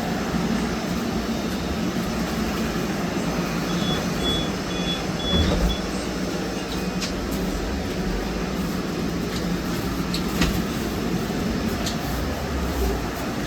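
Trolleybus riding, heard from inside the cabin: steady running noise with a low hum, a short run of high electronic beeps about four seconds in, and a few sharp knocks and rattles.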